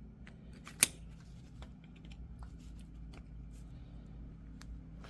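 Small metal clicks and ticks of a flathead screwdriver working behind a universal-joint retaining clip on a front axle shaft, with one sharper click a little under a second in, over a faint steady low hum.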